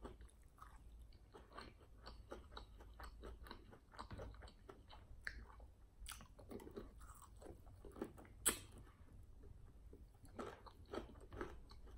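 Close-miked chewing of crispy fried chicken wings: irregular crunching and wet smacking, with one louder, sharp crack about eight and a half seconds in.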